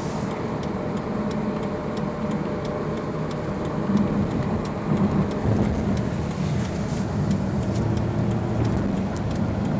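Steady engine and road noise heard from inside a moving car's cabin, with a constant rushing haze over the low engine hum.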